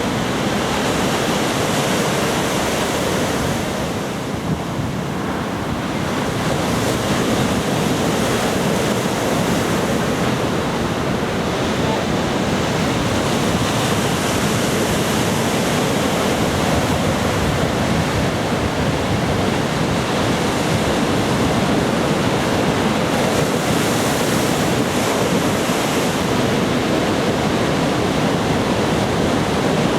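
Ocean surf from a typhoon swell breaking on a beach: a steady rushing wash of waves, dipping slightly about four seconds in before building again.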